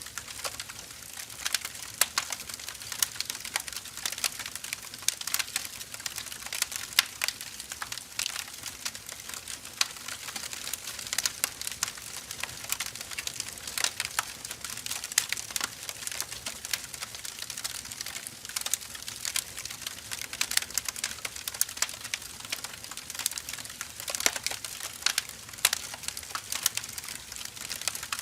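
Firewood burning: a steady soft hiss with frequent irregular crackles and pops from the burning logs.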